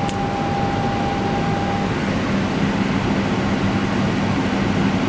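Steady fan and machinery noise in an Airbus flight deck, with a switch click at the start. A steady high tone stops about two seconds in and a lower steady hum starts shortly after.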